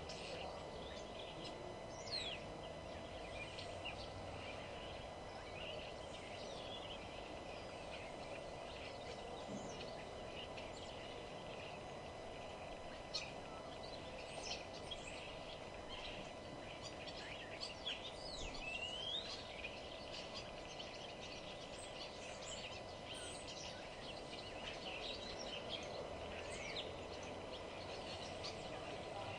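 Wild birds chirping and calling: many short, scattered chirps and quick whistled sweeps, some rising and some falling, over a steady background of environmental noise.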